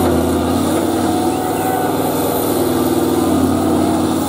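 Truck engine running steadily, a continuous low drone.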